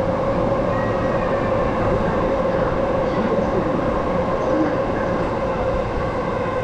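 Steady rumble of a train at the station, with a constant mid-pitched drone over it.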